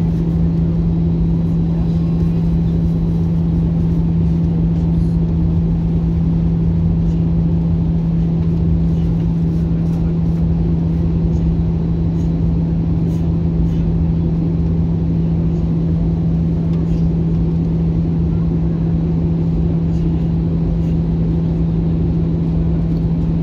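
Steady cabin noise inside an Airbus A321-200 in flight: a constant low rumble of engines and rushing air with a steady droning hum, unchanging in level.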